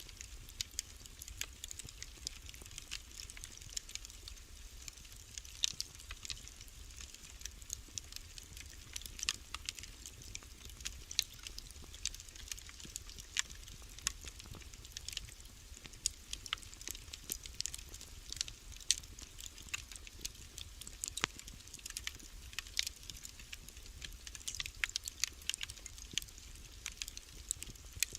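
Fire burning in a fireplace, crackling with frequent irregular sharp pops and snaps over a soft steady hiss.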